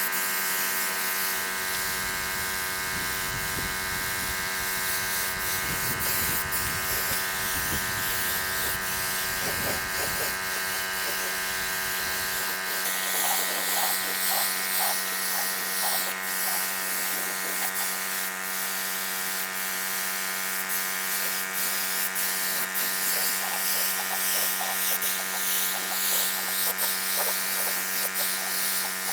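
Small electric motor, most likely a handheld power tool, running steadily with a buzzing hum. About thirteen seconds in, its low rumble drops away and the tone shifts slightly, as if the tool's load changes. Faint scattered ticks run throughout.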